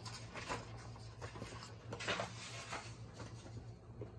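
Soft rustling or brushing noises, several short brushes roughly every half second to a second, the strongest about two seconds in, over a low steady hum.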